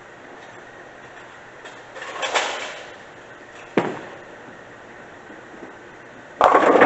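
A Blizzard Meltdown bowling ball lands on the lane with a sharp thud just before halfway and rolls down it, then crashes loudly into the pins near the end.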